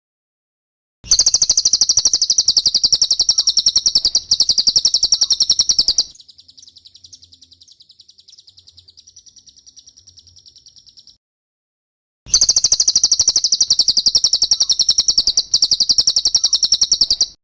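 Cililin bird song: a loud, very fast, high-pitched trill for about five seconds, then softer, thinner twittering. After a short silence the loud trill starts again.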